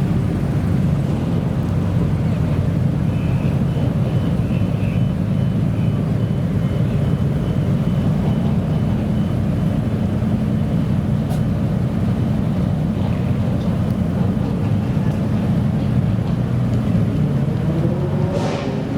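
Modified car's engine running steadily through its exhaust, the revs rising near the end.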